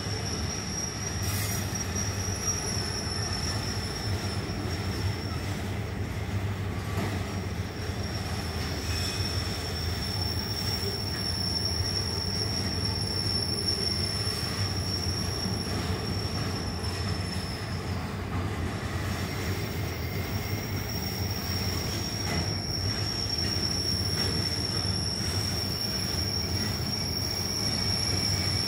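Norfolk Southern rail train's flatcars, loaded with lengths of rail, rolling past with a steady rumble of wheels on the track and a high, steady wheel squeal. The squeal fades out for a couple of seconds a little past the middle, then comes back.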